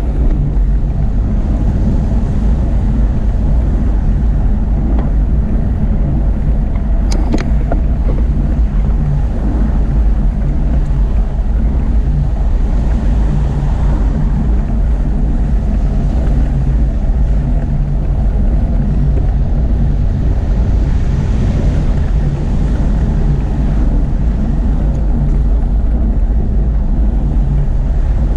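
Wind buffeting the microphone of a camera on a moving bicycle: a loud, steady low rumble, with a couple of sharp clicks about seven seconds in.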